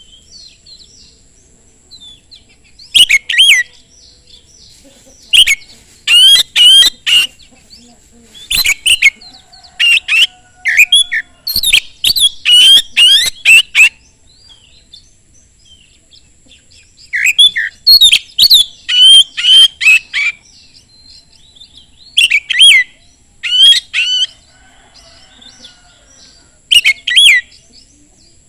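Oriental magpie-robin in full song: loud bursts of rapid, sweeping whistled phrases, several in a row, with pauses of softer twittering between them.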